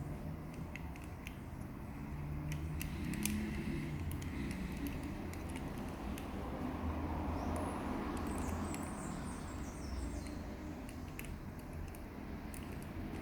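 Scattered small clicks and creaks over a steady low hum, with faint high chirps near the middle.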